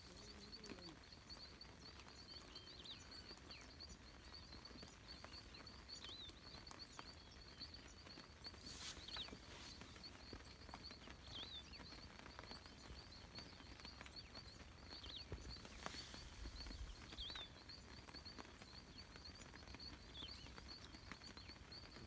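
Faint outdoor evening ambience. A steady, rapid, high-pitched pulsing trill runs throughout, with short falling chirps every few seconds and a couple of brief soft knocks.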